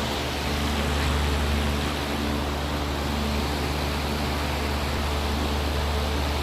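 A steady machine hum with a strong low drone under a wash of even noise, like a running motor or fan; it holds level throughout, a little louder for a moment about a second in.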